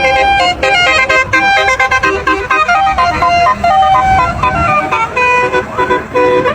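A Basuri multi-tone musical truck horn playing a fast melody of short, changing notes, with a brief rising glide near the end.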